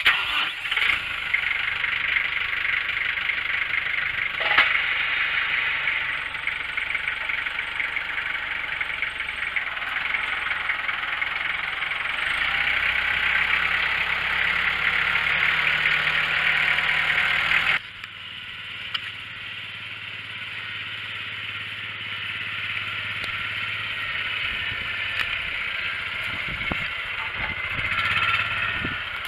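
Small engine running steadily under load, with a sudden drop in level about 18 seconds in, after which it carries on more quietly.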